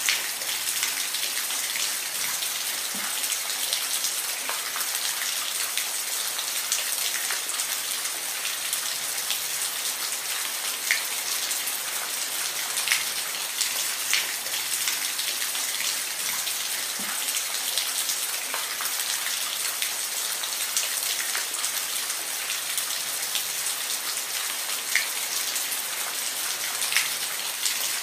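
Steady rain falling, an even hiss with individual drops now and then hitting a surface with sharper taps.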